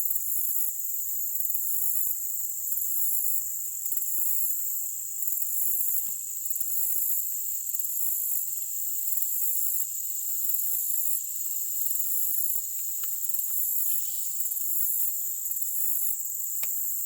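Outdoor insect chorus: a steady, high-pitched trill with a higher layer pulsing on and off a little more than once a second. A few faint clicks come through around the middle and near the end.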